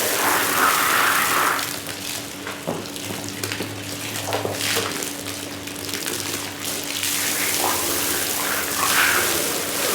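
Water running and splashing, surging louder about a second in and again near the end, over a faint steady hum.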